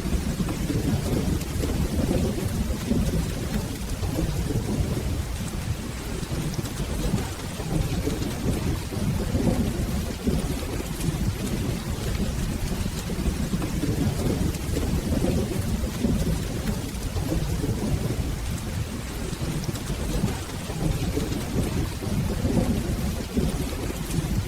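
Steady rain with a continuous low rumble of rolling thunder underneath, with no single sharp thunderclap.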